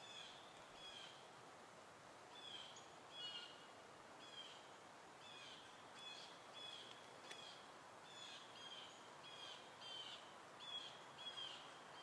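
Faint bird chirps: short high calls repeated over and over, roughly one or two a second, over a quiet hiss of woodland ambience.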